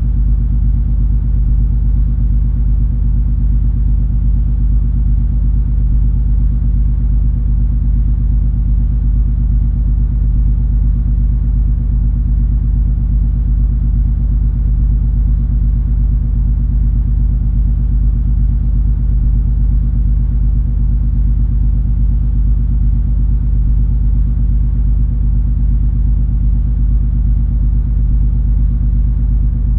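Steady low engine and machinery rumble of the cruise ferry MS Color Fantasy under way, with several steady hum tones over a deep drone.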